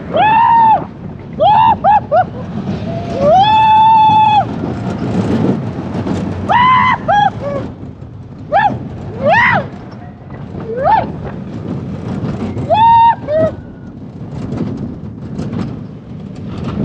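Riders on a mine-train roller coaster screaming: a string of short, high-pitched yells and whoops, with one long held scream about three seconds in, over the low rumble of the train running on its track.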